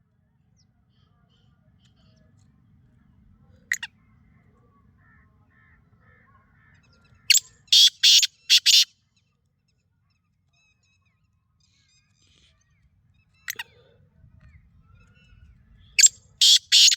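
Black francolin calling twice: each time a single short note, then a few seconds later a loud group of four harsh notes in quick succession.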